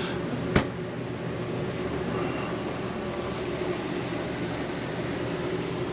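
Steady mechanical hum of an appliance running inside a travel trailer, with a single sharp knock about half a second in.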